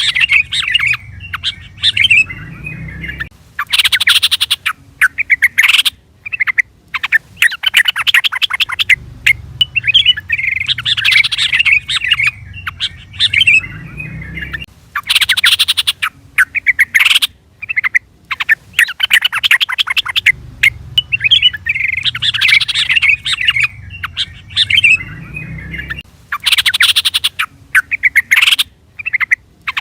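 Yellow-vented bulbul (trucukan) calling: loud runs of quick, bubbling chattering notes broken by short pauses, the same phrase sequence recurring about every eleven seconds as a looped lure call.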